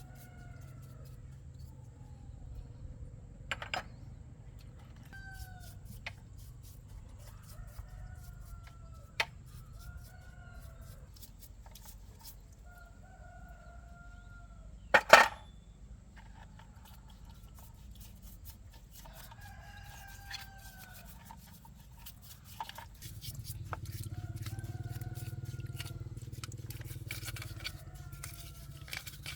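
Chickens calling over and over with short rising-and-falling calls. Several sharp knocks sound in between, one much louder about halfway through, and a low hum swells for a few seconds near the end.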